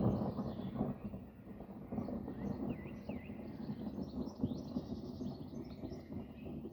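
Birds chirping and singing, busiest in the second half, over an uneven low background noise.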